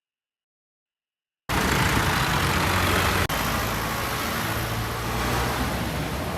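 Silence for about a second and a half, then an old tractor's engine running steadily with a broad hiss over it. A sudden break about three seconds in, where the recording cuts, then the engine continues.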